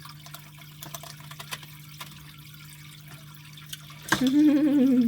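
Water dripping and trickling in a terrapin's tank over a steady low hum, with a few faint ticks. About four seconds in, a person makes a loud, drawn-out wavering vocal sound lasting about a second.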